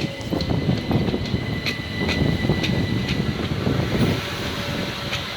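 Class 377 electric multiple unit moving in the station: a low rumble with a steady high whine and scattered clicks.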